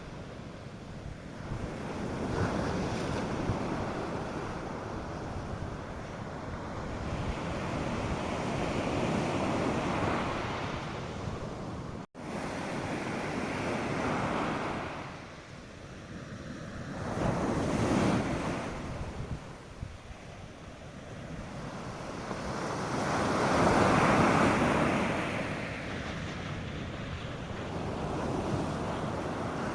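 North Sea surf breaking on a sandy beach: a continuous wash that swells and ebbs as each wave comes in, loudest about two-thirds through, with light wind on the microphone. The sound drops out for an instant about twelve seconds in.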